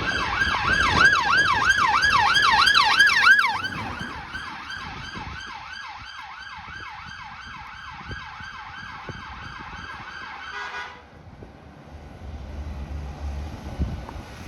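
Emergency vehicle siren on a fast yelp, its pitch sweeping up and down about three to four times a second. It is loud for the first few seconds, then drops to a fainter level and cuts off suddenly about eleven seconds in, leaving road traffic noise.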